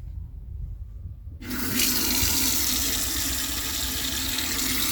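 Water running from a faucet into a deep kitchen sink. It is turned on about a second and a half in and then flows steadily.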